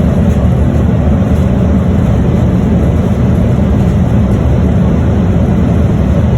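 Loud, steady low rumble heard in the cockpit of a Boeing 747-400 freighter during its landing rollout.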